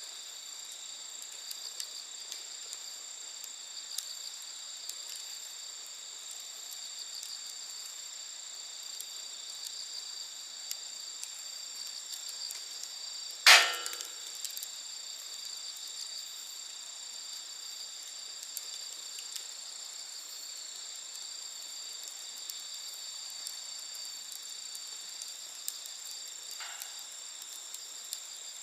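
Wood campfire crackling with scattered small snaps and one loud sharp pop about halfway through, over the steady high-pitched chirring of insects.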